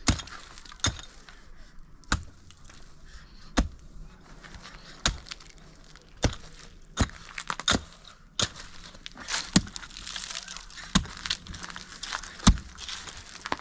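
A series of about a dozen sharp knocks or cracks, roughly one every second or so, like blows on wood or sticks being broken, with rustling between them near the end.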